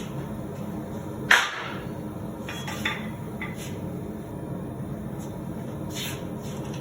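Blacksmith's tools handled at the anvil: one sharp metallic clank about a second in, then a few lighter clinks, over a steady low hum.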